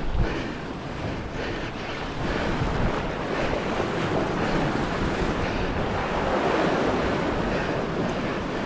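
Sea surf washing against the shore, with a wash that builds through the middle, and wind buffeting the microphone.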